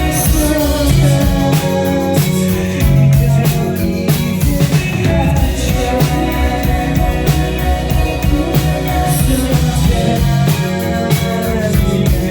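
Live indie rock band playing loud, with electric guitars, drum kit and singing, recorded from the crowd.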